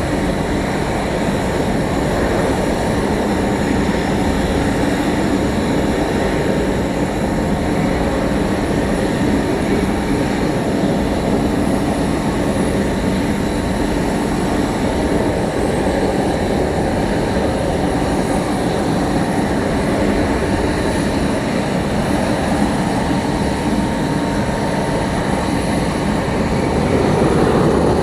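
Aircraft engines running steadily, a low drone with a thin steady whine above it, growing a little louder near the end.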